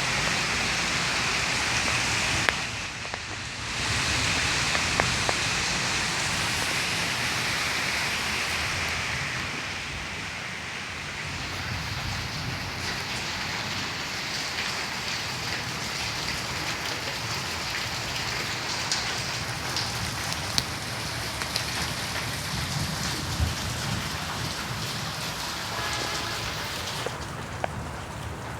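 Steady rain falling, a dense hiss with many scattered drop ticks; it dips briefly about three seconds in and eases a little about ten seconds in.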